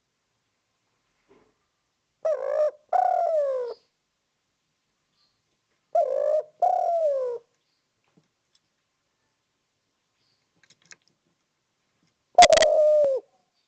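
Spotted dove cooing: three two-note phrases, each a short coo followed by a longer one falling in pitch, spaced a few seconds apart. The last phrase, near the end, is the loudest and starts with a sharp knock.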